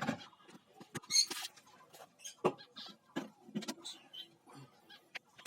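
Caged lovebirds giving short, high-pitched chirps and squeaks, mixed with scattered sharp clicks and taps.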